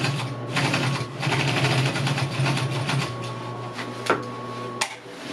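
Sewing machine stitching canvas for a sail cover in a steady run, stopping shortly before the end.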